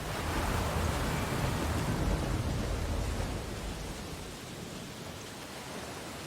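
Ocean waves on a beach: a wave breaks and washes in with a low rumble, then eases off after about four seconds into a quieter steady hiss of surf.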